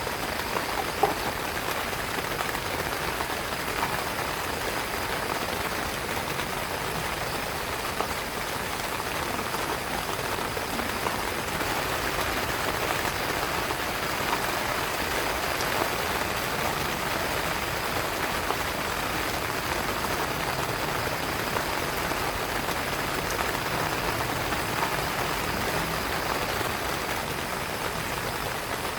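Heavy rain falling steadily on a tent, with an occasional louder drop.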